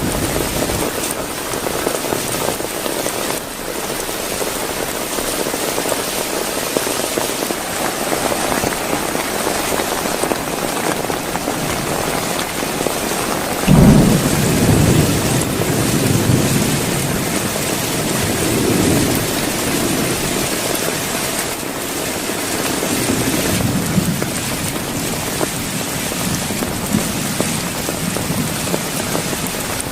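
Heavy rain falling steadily. Thunder cracks about halfway through and rumbles on for several seconds.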